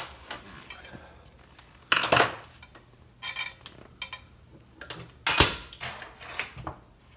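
Metal tools and parts being handled and set down on a workbench: a series of irregular clinks and clatters, the loudest about five and a half seconds in.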